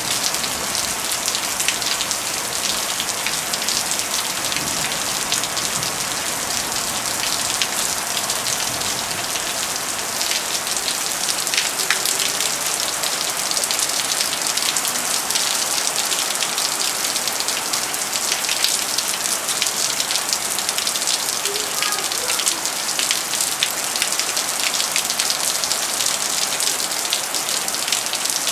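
Steady rain falling on nearby surfaces during a thunderstorm: an even hiss full of many fine drop ticks.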